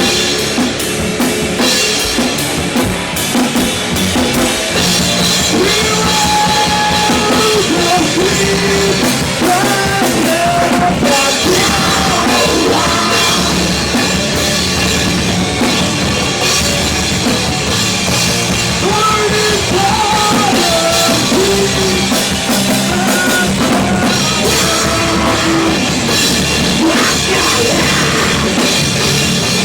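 A rock band jamming loud metalcore on drum kit and guitars, with a melodic line weaving over the steady drumming through most of the stretch.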